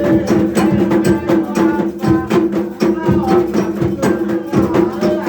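Percussion music: a dense, fast rhythm of drum strokes with voices singing over it, in the manner of Afro-Brazilian 'rum' drumming.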